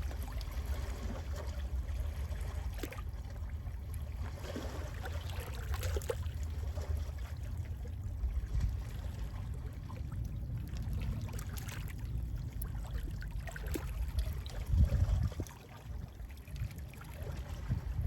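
Gentle sea waves lapping and trickling at the shore, over a steady low rumble of sea wind on the microphone. The sound surges louder about 15 seconds in, then drops briefly.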